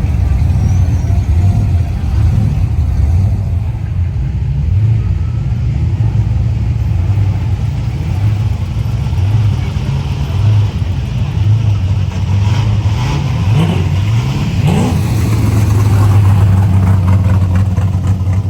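Car engines running with a steady low rumble, and one engine revving up, rising in pitch, about fourteen seconds in.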